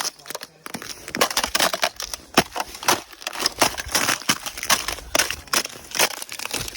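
Irregular crunching, several sharp crunches a second.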